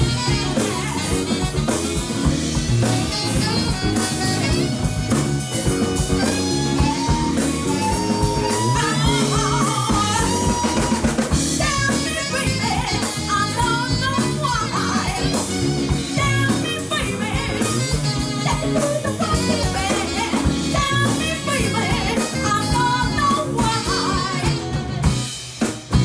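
Live band playing a blues-flavoured number with a steady beat on the drum kit, bass and guitar under a melodic lead line.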